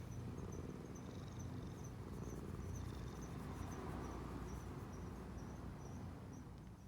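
Insects chirping outdoors: short, high, regular pulses about three a second, over a steady low rumble.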